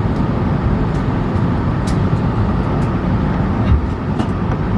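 Cabin noise of an Airbus A220-300 on the ground, heard from a window seat: a steady low rumble of its Pratt & Whitney geared turbofans and airflow, typical of the aircraft taxiing. A dull bump sounds about three-quarters of the way through.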